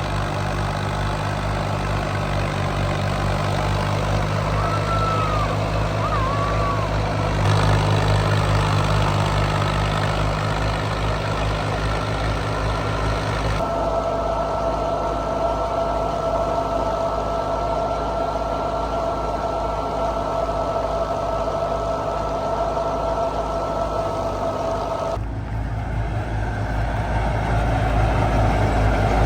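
Diesel engine of heavy farm machinery running steadily with a fast low pulse. A steady high whine rides over it through the middle, and the sound changes abruptly three times.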